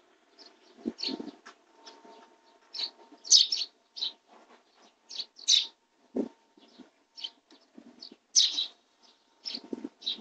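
Sparrows chirping: a string of short, high, separate chirps, about two a second and uneven, with a couple of soft low knocks among them.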